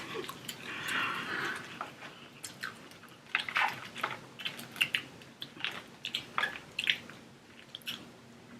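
Close-up eating sounds of a seafood boil: wet chewing and smacking, with irregular short clicks.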